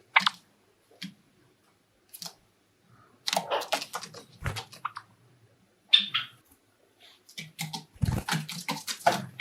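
Pet Java sparrows moving about and calling: irregular short scuffles and clicks, in two longer clusters in the middle and near the end, with a low thump about eight seconds in.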